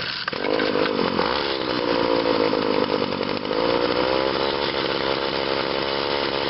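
Two-stroke engine of a Weed Eater GTI 19 string trimmer running unevenly just after a cold start on manual choke, its speed rising and falling.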